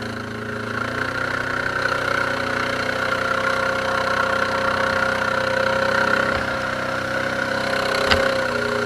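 ATV engine running steadily at fairly constant revs, which rise slightly in the first second or two. There is one short knock near the end.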